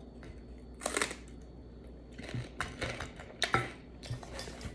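Eating close to the microphone: a mouthful of egg salad being chewed, heard as a scatter of short, soft crunches and clicks, with light taps of cutlery on the table near the end.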